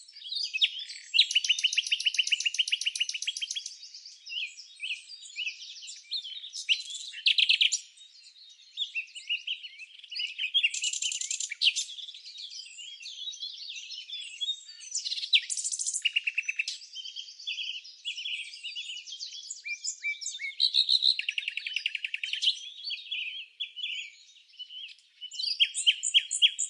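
Several songbirds singing and chirping, with rapid buzzy trills and short high chirps overlapping.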